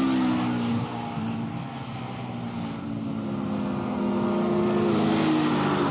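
Racing superbike engines passing at speed. One bike's engine note falls away in the first second, then another comes up louder and passes near the end, its pitch dropping as it goes by.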